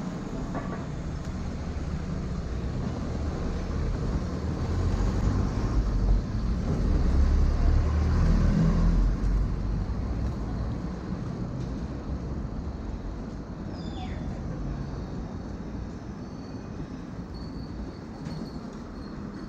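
Road traffic noise heard from a moving bicycle: a steady low rumble that swells about a third of the way in and then eases off.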